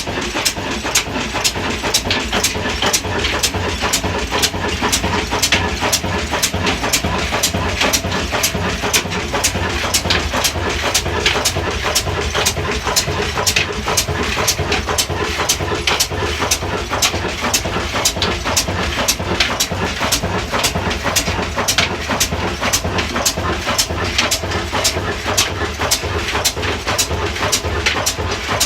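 Large-flywheel indigenous diesel engine running steadily, with a sharp, even knock about two to three times a second over a low rumble.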